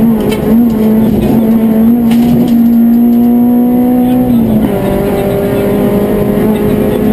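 Citroën Saxo rally car's four-cylinder engine heard from inside the cabin, running hard at high revs. Its pitch climbs a little and holds, then drops sharply about four and a half seconds in and holds steady again.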